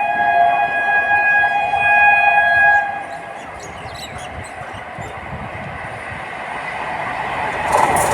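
Electric locomotive's air horn sounding one long chord that drops slightly in pitch as it passes, cutting off about three seconds in. Then the steady rumble of a passing train, which builds again near the end with sharp wheel clicks.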